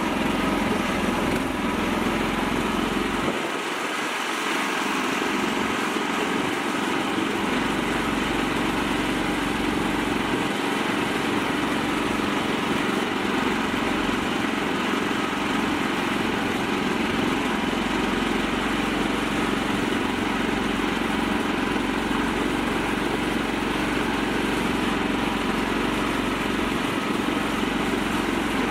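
Mini tractor engine running steadily at an even pitch.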